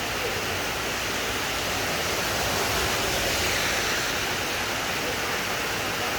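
Heavy rain falling steadily, a dense even hiss that swells a little around the middle.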